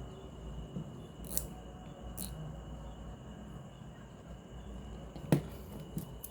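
Several sharp clicks and knocks, the loudest a little over five seconds in, over a steady low hum and a faint, steady high whine.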